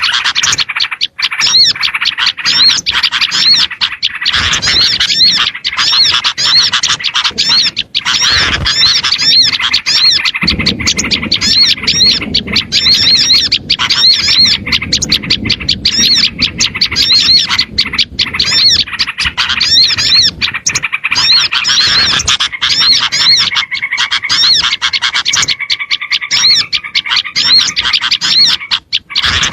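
Dense chorus of small songbirds chirping and twittering, a recorded lure call for small birds. It is made of quick high arched notes that repeat over and over at an even pace.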